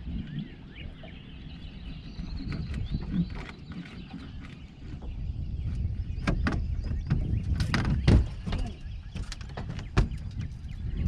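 Knocks and clatters of gear being handled on a small fishing boat, loudest about eight seconds in, over a steady low rumble. Faint bird chirps come through in the first few seconds.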